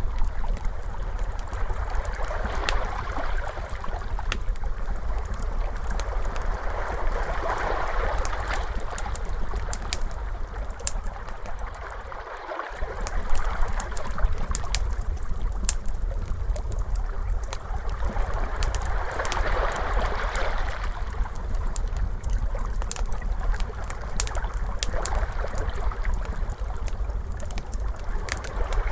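Crackling fire mixed with ocean waves: steady sharp crackles and pops of burning wood over the wash of surf, which swells and fades every several seconds.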